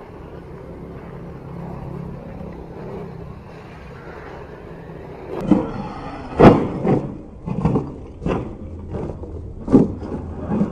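1/10 HSP Brontosaurus electric monster truck with a Leopard 9T brushless motor, being driven: a steady low rumble, then from about halfway a run of about six loud, sudden bursts and thumps.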